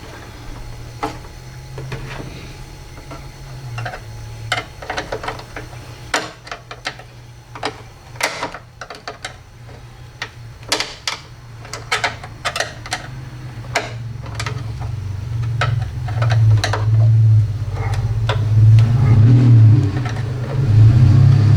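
Window regulator cables and clips being worked into place by hand: irregular clicks, ticks and small knocks of metal and plastic parts. A low steady hum runs underneath and grows louder in the second half.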